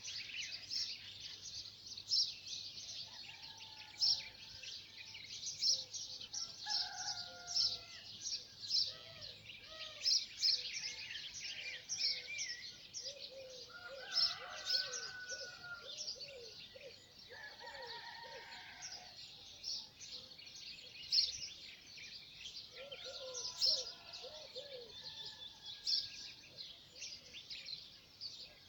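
Many small birds chirping quickly and without a break, with lower, looping calls from other birds joining in every few seconds.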